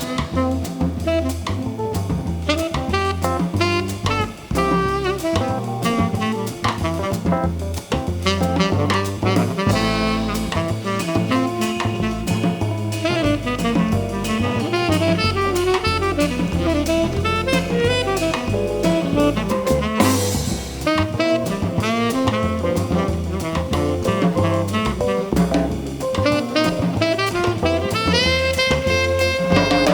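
Live jazz band playing: saxophone over guitar, keyboard, bass and drum kit, with a cymbal crash about two-thirds of the way through and a long held note near the end.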